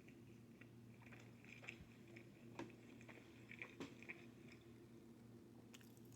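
Faint close-up chewing of pizza: soft wet mouth clicks and smacks, busiest from about one to four and a half seconds in, over a low steady hum.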